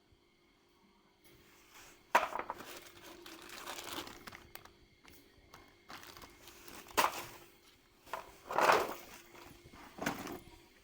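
Handling noises: irregular rustling and crinkling with a few sharp knocks, the first about two seconds in and the loudest near the end.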